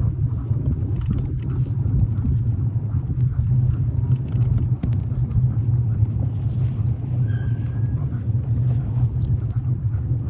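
Steady low rumble of a dog sled on the move through a snowstorm, mostly wind buffeting the microphone along with the sled running over snow. A brief faint squeak sounds about seven seconds in.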